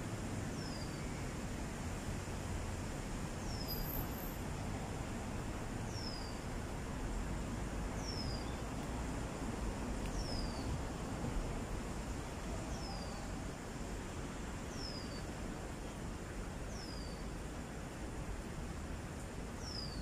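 A bird repeating one short, high, falling whistle about every two seconds, over a steady outdoor hiss.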